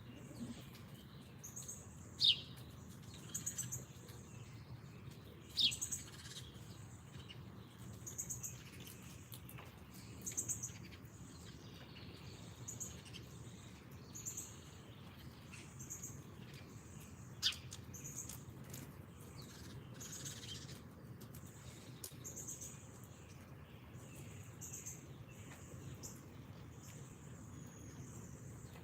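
Small songbirds calling: a run of high, rapidly pulsed notes repeating every second or two, with a few loud sharp down-slurred chips about two, six and seventeen seconds in, over a faint steady low hum.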